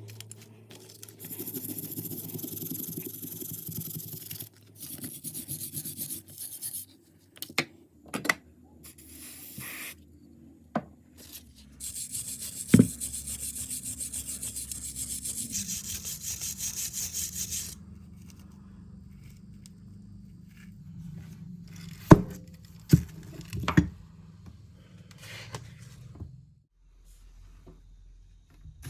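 Rubbing and filing on the rusty metal of an old bullet reloading tool, in runs of quick, even strokes, with a few sharp knocks in between and a low steady hum underneath.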